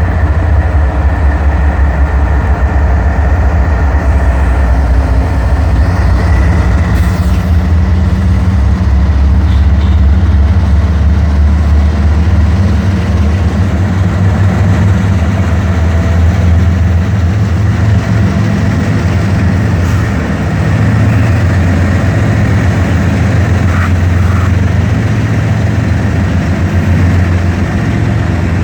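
Diesel freight locomotives working under power at close range, a steady deep engine drone that shifts slightly in pitch about two-thirds of the way through.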